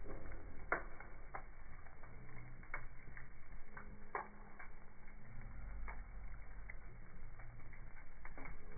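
Wood fire in a fireplace crackling: irregular sharp pops and snaps, a couple of them louder, over a low rumble of the flames. The sound is muffled and dull.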